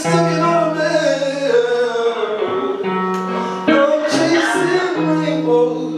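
Acoustic guitar strumming sustained chords with a voice singing over it; a held sung note slides down during the first two seconds.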